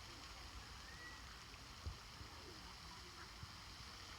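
Faint outdoor ambience: a steady low rumble with a few faint chirp-like glides, and a single soft thump about two seconds in.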